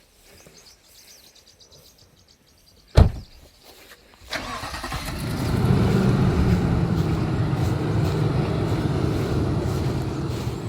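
A single loud thump about three seconds in, then about a second later an engine starts and keeps running with a steady low hum that builds over the next couple of seconds.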